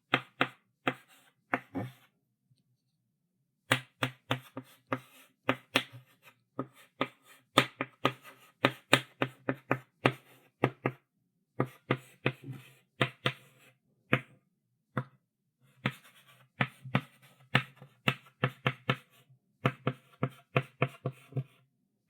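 Chalk writing on a blackboard: quick, sharp taps and short scrapes of the chalk stick, one stroke after another, pausing briefly about two seconds in and again about fourteen seconds in.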